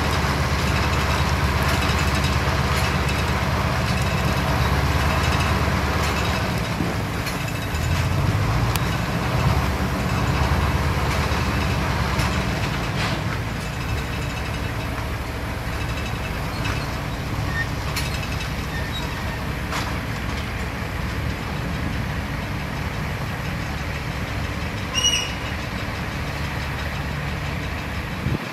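Diesel engines of heavy earthmoving machinery running steadily, louder for the first few seconds, with occasional sharp clanks and a brief high squeak near the end.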